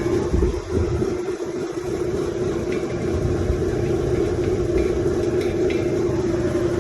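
Rooftop air-conditioning condensing unit running with a steady hum and a low rumble. Its pressure has been read as low on refrigerant.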